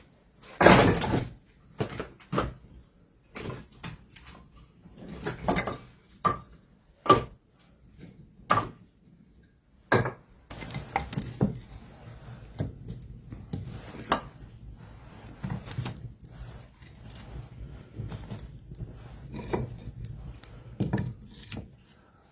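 Scattered wooden knocks and clatters of things being handled and set down, with a steady low background sound from about halfway through.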